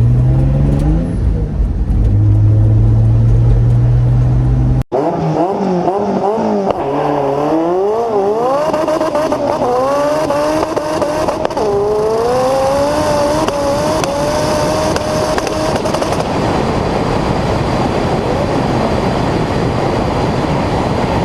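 Turbocharged drag-race car engines. First a loud, low engine note, then after a sudden cut the engines accelerate hard through the gears, their pitch climbing and dropping back at each shift. Near the end this settles into a steady engine and road noise.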